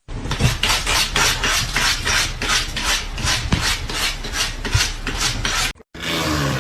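Rhythmic scraping, about four strokes a second, that cuts off suddenly near the end.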